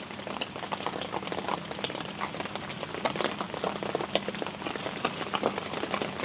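Heavy rain falling steadily, a dense patter of many separate drop hits.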